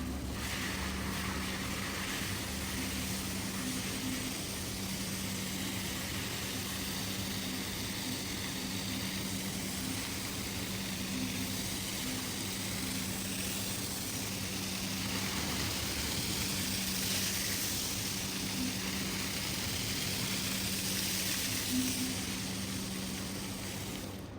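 A machine running steadily, a constant low hum with an even hiss over it.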